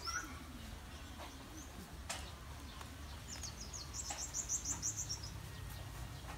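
A small bird calling: a fast run of about a dozen short, high chirps lasting about two seconds, from about halfway through. A steady low rumble lies underneath.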